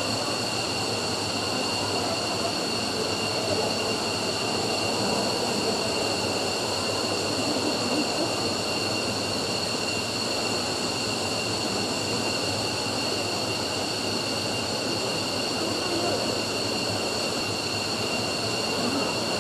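F-15 fighter's F100 turbofan engine running steadily on a ground run, a constant high whine over an even rushing noise.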